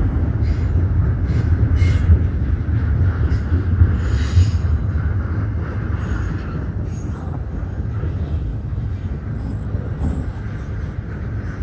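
CSX double-stack intermodal well cars rolling past: a steady low rumble of steel wheels on rail, with occasional short clanks from the cars.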